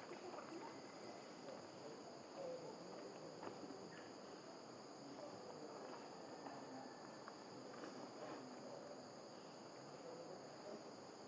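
Faint, steady, high-pitched insect chorus, drawn out as two even drones, over a low background murmur.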